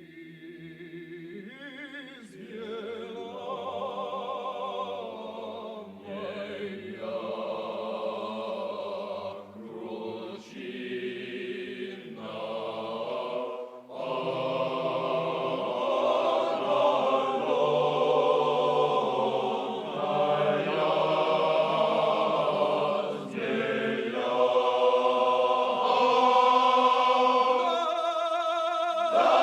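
Male chorus singing a slow Russian song a cappella in long sustained phrases, swelling from soft at the start to loud near the end.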